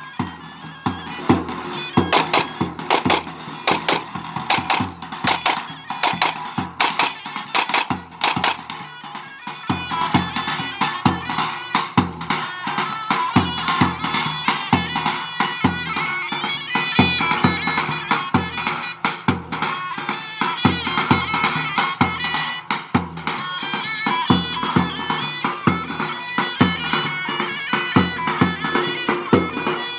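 Turkish halay folk music: a shrill reed wind instrument, typically the zurna, plays a dense melody over a steady, heavily struck drum beat.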